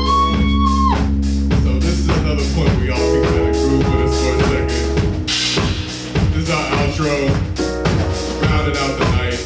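Live band music: a drum kit playing a steady beat with bass drum, over sustained bass and keyboard notes. A high held note glides in at the start and stops about a second in.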